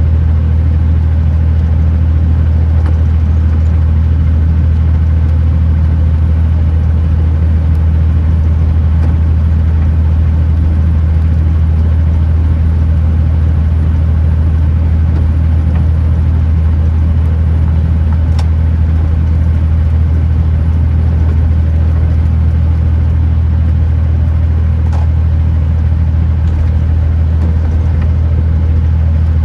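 Kenworth T909 truck's diesel engine and tyre noise at a steady cruise: a loud, even low drone that holds unchanged throughout.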